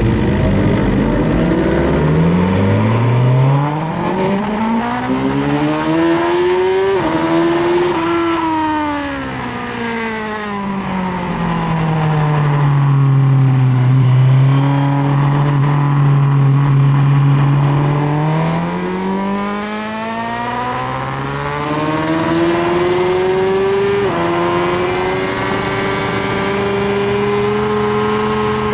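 Suzuki GSX-R1000R inline-four engine heard onboard at track speed, with wind rushing past. It revs up and drops sharply in pitch on an upshift about seven seconds in, winds down and holds steady at low revs through the middle, then accelerates again with another upshift near the end.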